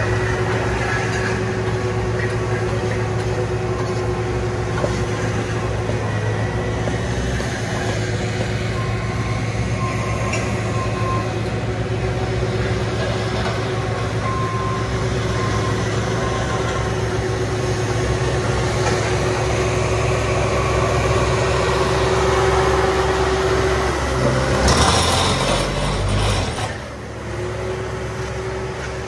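Engine of heavy asphalt-paving machinery running steadily with a constant hum. Near the end the hum breaks off for a couple of seconds with a louder burst of noise, then picks up again.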